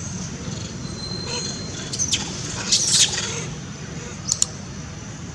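Baby monkey screaming in high-pitched squeals: a thin whistle about a second in, shrill squeals from about two seconds in that peak near three seconds, then two short squeaks near the end.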